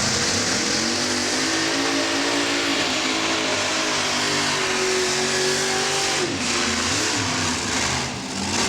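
Modified pulling tractor's engine running at full throttle under load during a pull. The pitch climbs slightly and holds, dips and wavers about six seconds in, then drops near the end.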